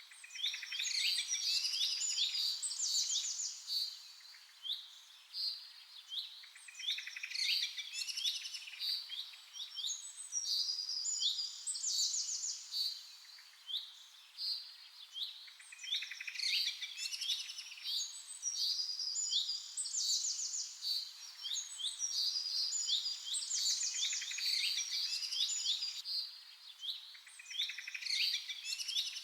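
Several songbirds chirping and trilling with high, quick notes in overlapping bouts that swell and fade every few seconds.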